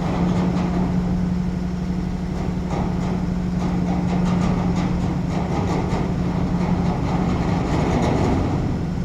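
Container truck's diesel engine idling with a steady low hum.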